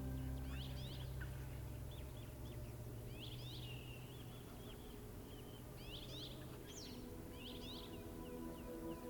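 Small birds calling in quick, high chirps that sweep up and down, a cluster about every one to one and a half seconds, while the last sustained notes of soft music fade out.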